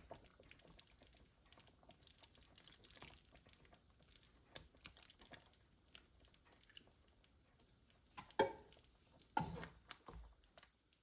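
Scattered light clicks and scrapes of kitchenware being handled, with two louder knocks near the end.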